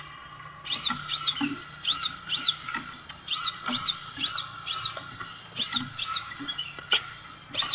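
Sepah raja songbird calling: a series of short, high, arched chirps, about three a second in runs with brief pauses between them, over a faint steady background hum.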